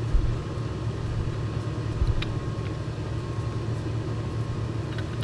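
Steady low hum of shop machinery running, with a soft low thump near the start and another thump with a small metallic click about two seconds in.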